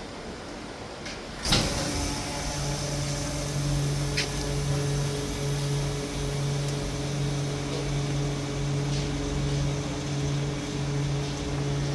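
A sharp thump about a second and a half in, then the vacuum pump of a double-chamber vacuum packing machine starts and runs with a steady hum that pulses slightly as it draws down the chamber.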